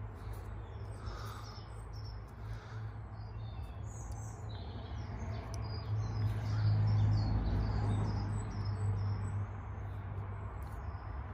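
Small birds chirping repeatedly, short scattered calls over a steady low hum that swells for a couple of seconds around the middle.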